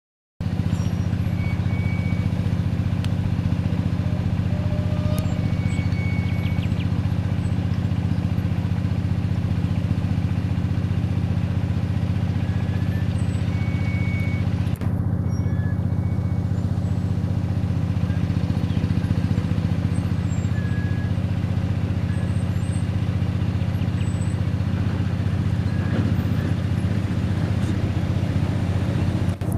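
Diesel engine of a loaded truck running steadily at low revs, as on a climb.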